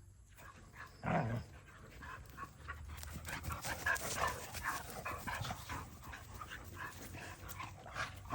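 Dogs playing together: a short whine about a second in, then a busy stretch of panting and small whimpers with quick scuffling clicks.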